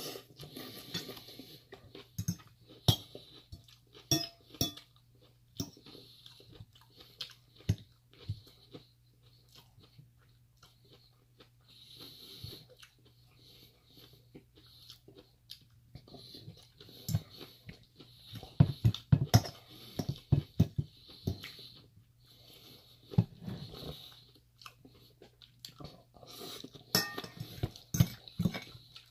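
Close-up chewing and crunching of a mouthful of salad, with a metal fork repeatedly clinking and scraping against a bowl; the clinks come in quick clusters about two-thirds of the way through and again near the end.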